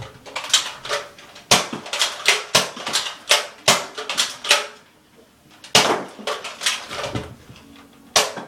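Nerf blasters firing and being cocked during a dart fight: an irregular run of sharp clicks and knocks, several a second, with a brief lull about five seconds in.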